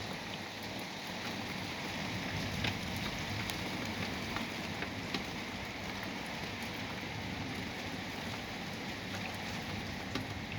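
Steady thunderstorm rain, with scattered sharp ticks of individual drops hitting close by.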